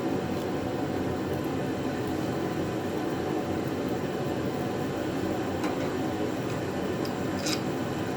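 A steady low drone, like a running fan or machine, holding one level throughout, with a few light clicks in the second half.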